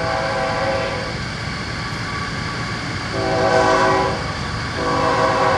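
Train horn sounding in long blasts over the low rumble of a passing train: one blast ends about a second in, another runs from about three to four seconds, and a third starts near the end.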